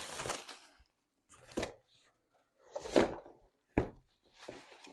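Small packaged diamond-painting kits being handled: a rustle of packaging at the start, then a few short, sharp knocks and taps as the kits are shuffled and set down.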